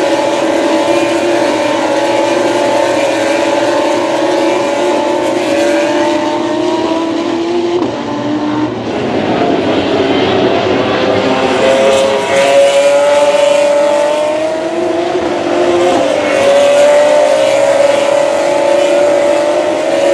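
GP3 race car's 3.4-litre V6 running at high revs, its pitch climbing slowly. About eight seconds in the note drops and breaks up briefly, then picks up and climbs again, with a smaller dip near the end.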